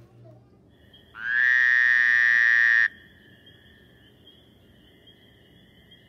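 A frog call: one loud, rapidly pulsed trill about two seconds long that rises in pitch as it starts, with faint steady high-pitched chirring before and after it.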